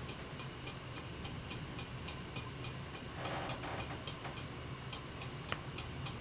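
Crickets chirping in a regular rhythm of about three chirps a second over a continuous high insect trill. A brief rustle comes a little past the middle and a single click near the end.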